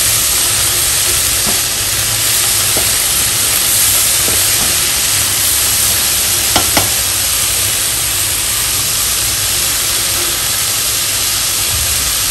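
Mixed vegetables sizzling as they are stir-fried in a wok, with a steady frying hiss and a few light clicks of the spatula against the pan, two close together about six and a half seconds in.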